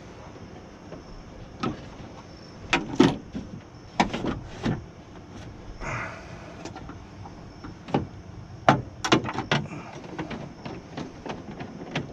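Hand work on a car door's window regulator: a dozen or so separate sharp metal clicks and knocks as the parts are handled and fitted, with a short scrape about six seconds in.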